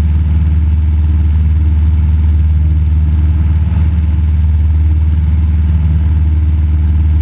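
Cessna 172 Skyhawk's piston engine and propeller running at a steady cruise, heard as a loud, even drone inside the cabin.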